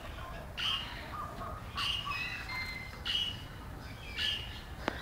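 Parrots in an aviary giving a string of short, high chirps, about one a second.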